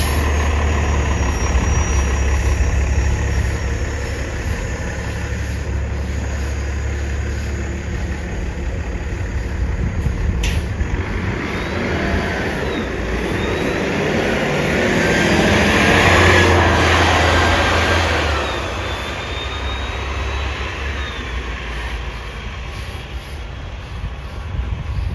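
A heavy vehicle's engine running steadily, with road noise swelling to its loudest about two-thirds of the way through as traffic passes.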